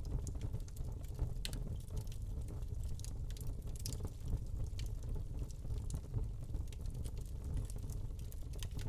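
Wood log fire burning in a fireplace: a steady low rumble of flames with irregular small crackles and pops.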